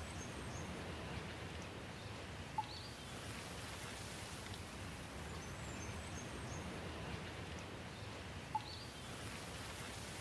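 Steady rain falling, an even hiss, with faint high bird chirps now and then and two brief louder plinks about six seconds apart.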